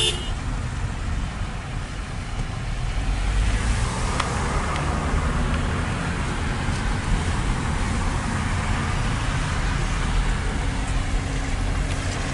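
Car on the road: steady engine and tyre noise, swelling a few seconds in.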